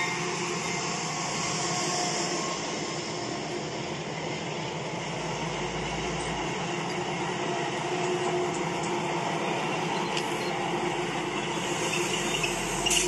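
Freight train cars rolling past on rails: a steady rolling rumble of wheels with faint steady ringing tones, and a few clicks near the end.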